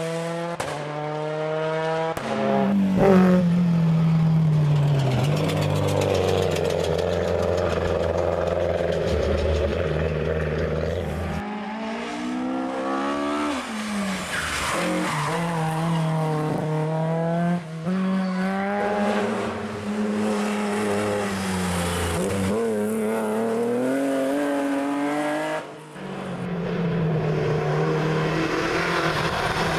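Historic rally cars driven at full throttle, one after another: each engine revs hard, climbs in pitch and drops sharply at each gear change, with some tyre squeal.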